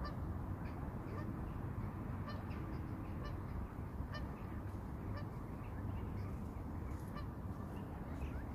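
Birds calling throughout in many short, repeated notes, over a steady low rumble of wind on the microphone.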